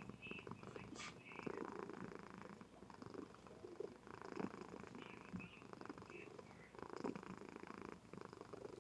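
A Somali cat purring softly and steadily, the purr swelling and easing with each breath in and out.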